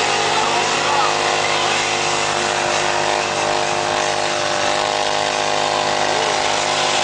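Many motorcycle engines running together in a steady, even drone, with a few brief revs rising and falling.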